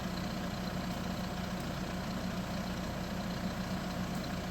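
Vehicle engine idling steadily, an even low hum.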